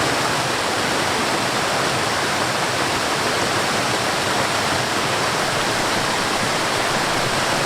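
Mountain stream and small waterfall rushing steadily, an even, unbroken sound of falling water.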